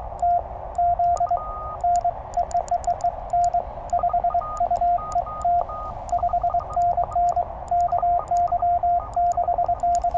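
Morse code on a Penntek TR-35 QRP transceiver: a steady sidetone near 700 Hz keyed in dits and dahs, with light clicks from the paddles, over receiver hiss. Fainter, higher-pitched Morse from other stations sounds in the background.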